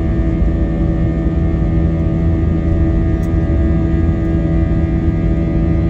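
Airliner cabin noise in flight after take-off: the steady rumble of engines and airflow, with a hum of several steady tones held throughout.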